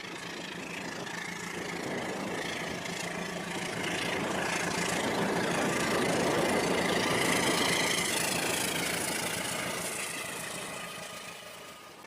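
Rail King remote-control toy train running along its track, growing louder towards the middle and fading again as it passes.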